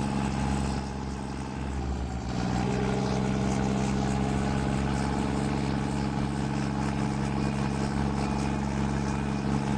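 Truck engine idling steadily, dipping a little in level about a second in and settling again with a slightly changed note about two and a half seconds in.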